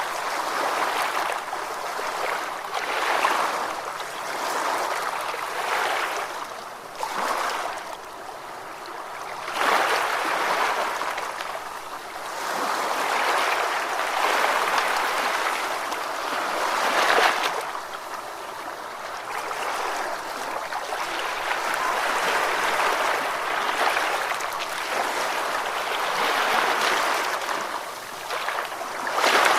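Ocean waves breaking and washing up a shore: a continuous hiss of surf that swells and falls back every three to five seconds.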